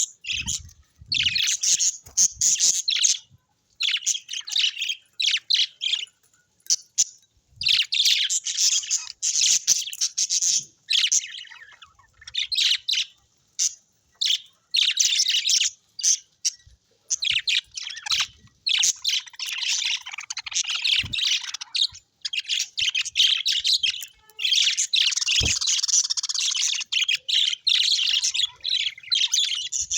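Parrots chirping and chattering in bouts of a few seconds each, with short pauses between them. The chatter becomes near-continuous in the last several seconds.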